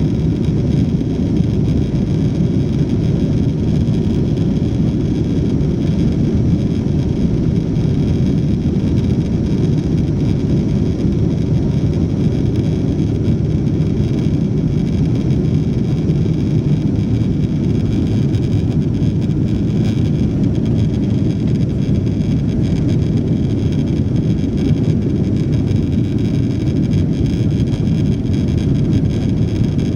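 Steady low rumble of a Boeing 777-200's Pratt & Whitney turbofans and rushing air heard inside the passenger cabin, with a faint high whine above it.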